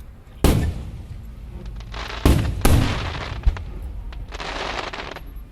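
Aerial fireworks bursting: a loud bang about half a second in and two more in quick succession a little past two seconds, each trailing off as it echoes, then about a second of hissing near the end.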